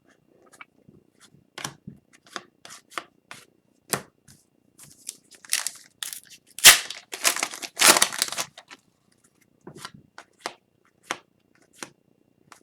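An Upper Deck hockey-card pack's foil wrapper being torn open and the cards handled: a string of short rustles and snaps, loudest from about six and a half to eight and a half seconds in.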